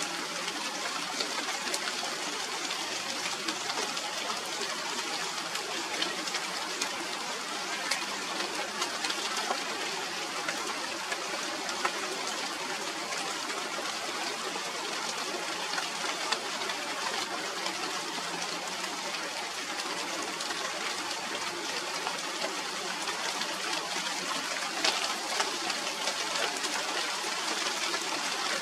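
Steady rain: an even hiss of falling rain, scattered with many sharp ticks of single drops striking.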